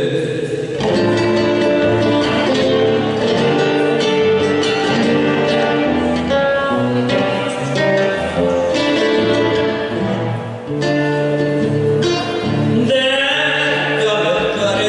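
Argentine folk music played live, led by plucked guitar, with a dense run of sustained and picked notes.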